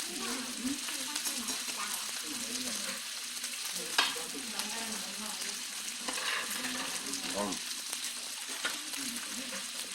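Steady sizzling hiss of hot food on a plate, with faint background voices and one sharp clink of a utensil about four seconds in.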